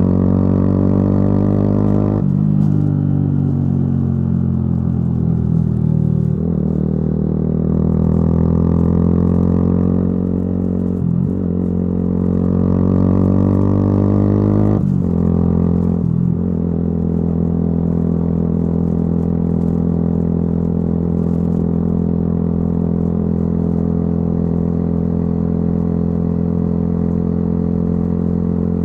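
Yamaha YZF-R125's 125 cc single-cylinder four-stroke engine through a modified exhaust, under way: the note changes with the throttle, with brief dips in the first half like gear changes, then holds a steady cruising pitch for the rest.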